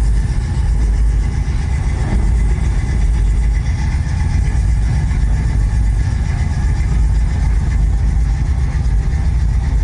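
Car engines idling, a steady low rumble with no change in pace.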